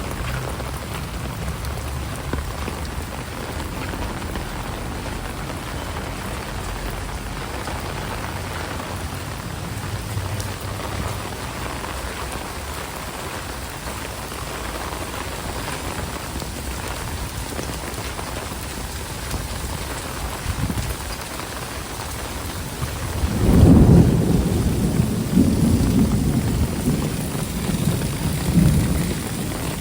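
Heavy rain falling steadily, with a loud low rumble of thunder rolling in about three-quarters of the way through and lasting several seconds.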